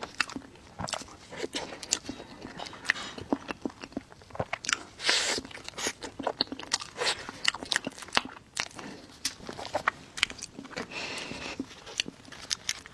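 Close-miked eating: chewing and biting with many sharp, irregular mouth clicks and smacks, and a louder burst about five seconds in.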